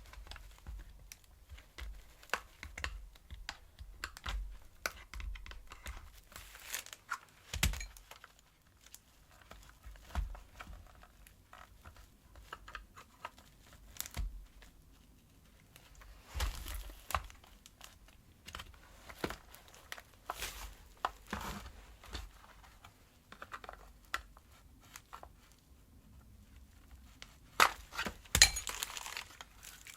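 Plastic parts of a vacuum cleaner's rotating-brush head being handled during disassembly: irregular clicks, small knocks and rustling, with a few louder clatters.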